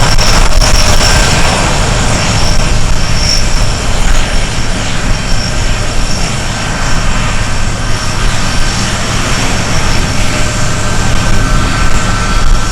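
Boeing C-17 Globemaster III's four turbofan engines running loud: a steady low rumble with a thin high whine over it.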